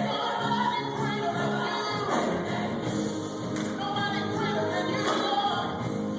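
Choir singing a gospel song, sustained voices moving from note to note.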